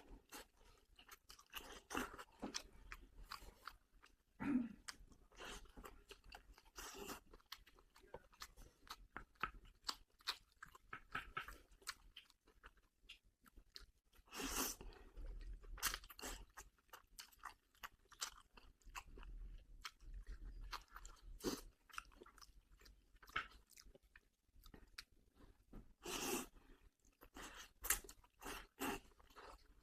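Close mouth sounds of a person eating braised fish: quiet, irregular wet chewing clicks and smacks, with a few louder brief bursts now and then.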